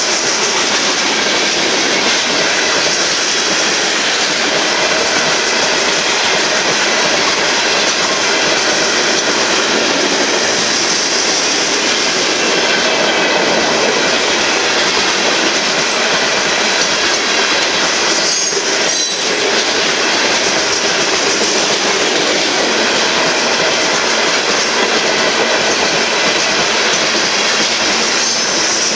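Loaded gravel cars of a Union Pacific freight train rolling past, a steady loud rumble and rattle of steel wheels on rail. A single sharp clank comes about two-thirds of the way through.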